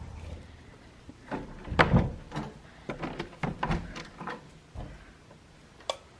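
A door being handled and opened: a run of clicks and knocks, the loudest about two seconds in.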